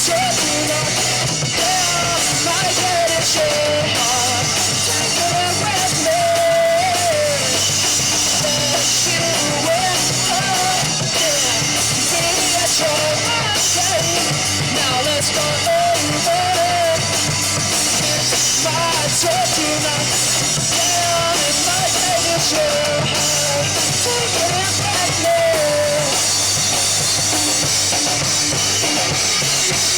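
Rock band playing live at a steady loud level, with a full drum kit driving the beat and a wavering lead melody over the band.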